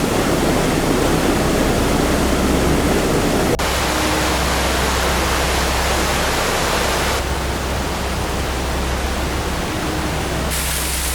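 Loud rush of fast-flowing floodwater, a dense steady noise that changes abruptly in character about three and a half, seven and ten and a half seconds in.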